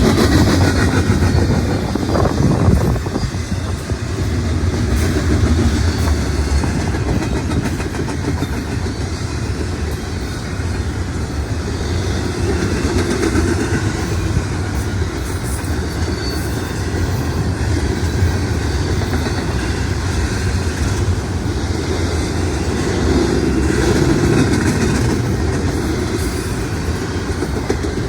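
Intermodal freight train rolling past: a steady, loud noise of wheels on rail from the passing cars.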